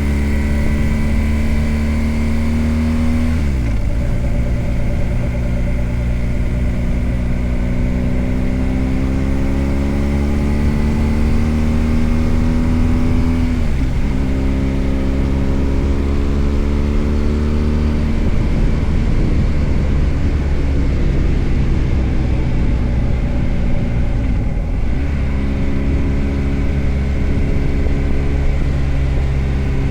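BMW R 1250 GS Adventure's boxer-twin engine under way, its pitch climbing slowly as the bike pulls through each gear, then dropping suddenly at about three upshifts.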